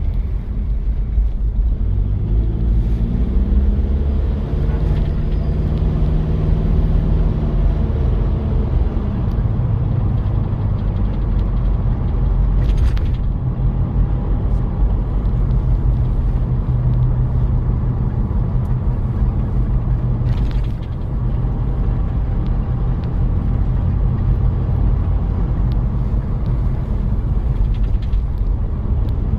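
Toyota Prado diesel engine pulling the vehicle along, with a low road rumble underneath. The engine note rises over the first several seconds and then holds steady, with a couple of short rattles partway through.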